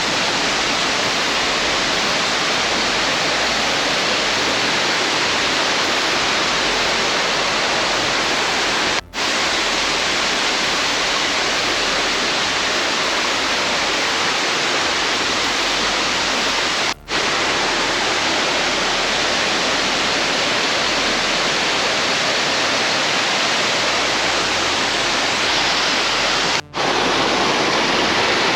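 Maracas Waterfall, a tall waterfall, falling in a loud, steady rush of water, broken by three momentary gaps.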